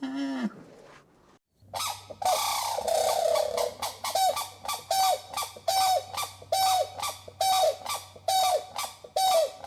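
An animal calling: one short call falling in pitch, then a rapid run of loud, harsh calls about two a second, each rising quickly and dropping off at its end, over a faint steady hum.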